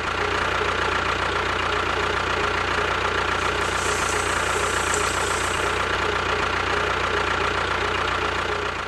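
A motor running steadily at a constant speed, with an even hum and a faint steady whine. It starts abruptly and cuts off suddenly at the end.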